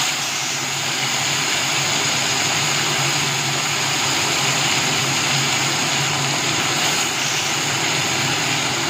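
Ground masala paste of tomato, ginger, green chilli and onion sizzling steadily in hot mustard oil in a kadai as it is stirred with a spatula, with a low steady hum underneath.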